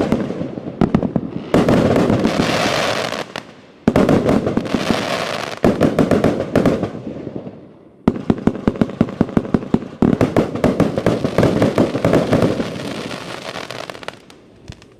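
A 102-shot compound firework cake firing rapid volleys of shots, several shots a second, in repeated sequences, some volleys trailing off in a crackling hiss. It dies away and stops near the end.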